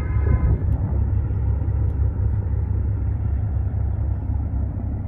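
Steady low rumble of a ship's engine, with a light even hiss above it.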